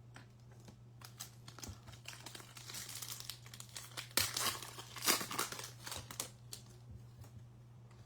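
A baseball card pack's foil wrapper being torn open and crinkled, with the cards rustling, as a quick run of crackles that is busiest in the middle. A steady low hum runs underneath.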